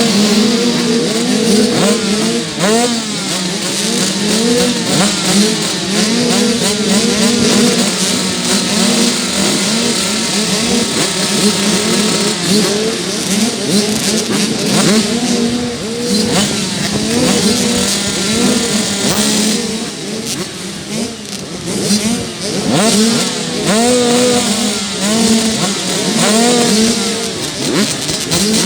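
Several dirt bike engines revving hard in a race, one bike close by climbing in pitch and dropping back over and over as it shifts through the gears, with other bikes' engines rising and falling around it.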